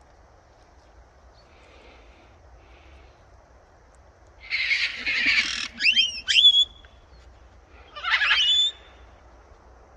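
Parrot squawking: a harsh screech about halfway through, then two quick swooping calls, and another harsh squawk near the end.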